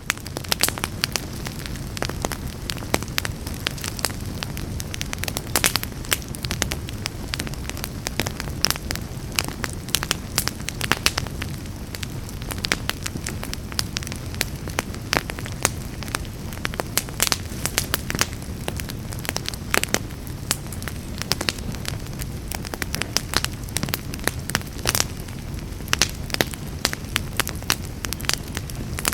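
Fireplace fire crackling: dense, irregular sharp pops and snaps over a steady low rumble of flame.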